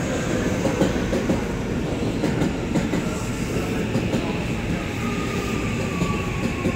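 A JR West 323 series electric train running slowly alongside the platform, its wheels rumbling and clicking over the rail joints. A faint whine sags slightly in pitch in the second half.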